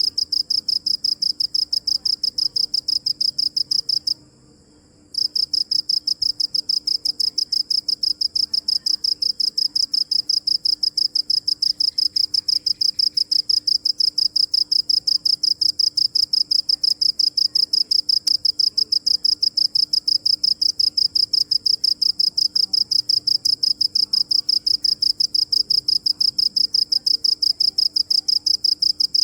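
A cricket chirping in a fast, steady run of high-pitched pulses, stopping for about a second about four seconds in, then carrying on.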